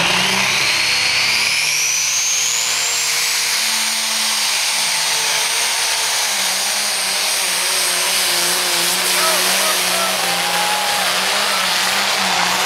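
John Deere pulling tractor's engine running hard at full throttle during a pull. A high whine rises over the first three seconds or so, then holds steady.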